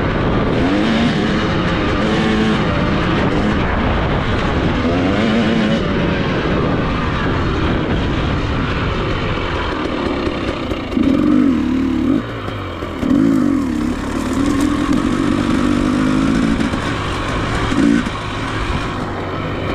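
Dirt bike engine revving up and down as the motorcycle is ridden round a motocross track, with several sharp surges in the second half.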